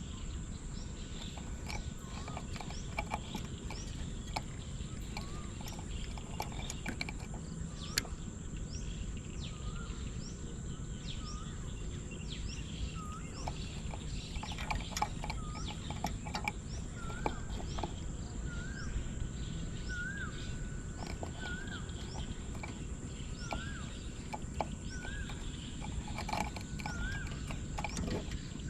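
Birds calling over a steady high buzz of insects. One bird repeats a short hooked whistle about once every second or so, each note a little higher than the last over the second half.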